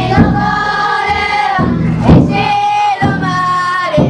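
Many voices singing a long-held festival chant together, with the futon daiko float's big taiko drum struck a few times between the phrases.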